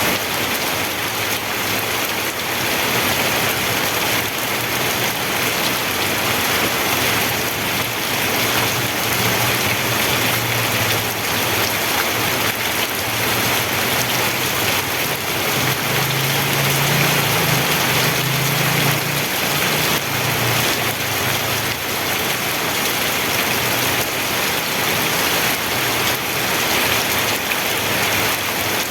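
Steady rain falling, an even hiss with no break, with a low rumble underneath through the middle stretch.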